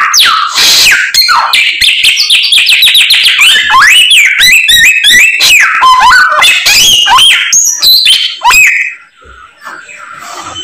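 Samyong songbird in full song: a fast, loud, varied stream of swooping whistles and chirps packed with learned song-phrases. It drops to faint notes about nine seconds in.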